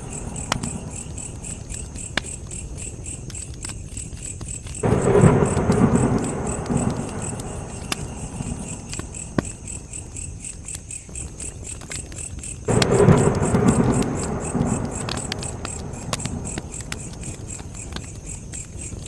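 Wood fire crackling with scattered sharp pops over a steady chirring of crickets. Twice, about five seconds in and again about thirteen seconds in, a rumble of thunder breaks in suddenly and fades over several seconds.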